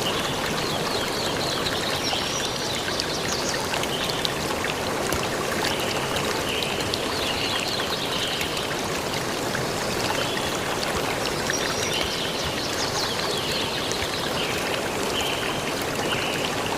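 Steady rushing of a flowing stream, with a bird's short chirping calls repeating over it.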